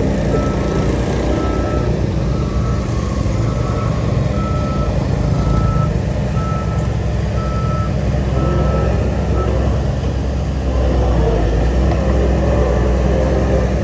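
Reversing alarm on a diesel earthmoving machine beeping about once a second over the steady rumble of its engine. The beeping stops about two-thirds of the way through while the engine keeps running.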